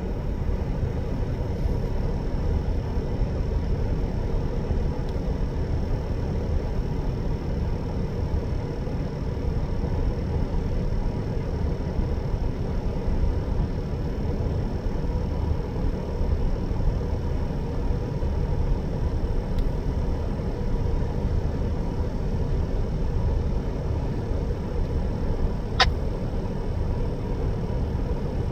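Engine idling steadily: a continuous low rumble with a steady hum, broken once by a single sharp click near the end.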